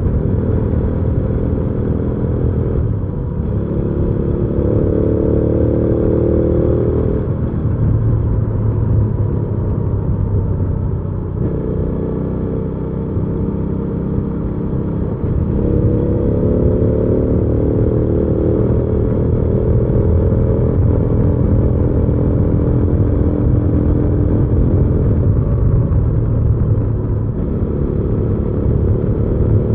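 Hyosung GV300S Aquila 300 V-twin motorcycle engine running while riding, its pitch rising in several pulls and dropping back at gear changes.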